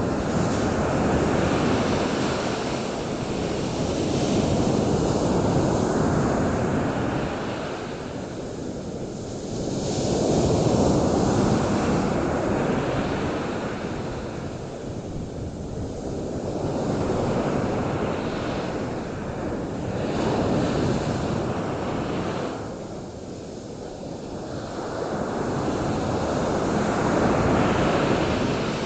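Ocean surf: waves washing onto a beach, the rush rising and falling about every five or six seconds.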